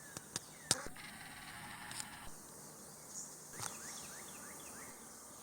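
Small birds calling: a few sharp chips in the first second, then a quick run of about five short falling notes a little past the middle.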